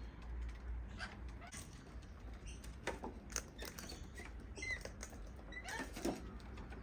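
Wild birds at a feeding spot giving a few short chirps and squeaks among scattered small taps and scuffles.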